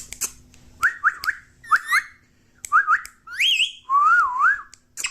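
Pet parrot whistling: a run of short rising whistles, then a longer whistle climbing higher about three and a half seconds in, and a warbling, wavering whistle near the end. A few sharp clicks come at the start.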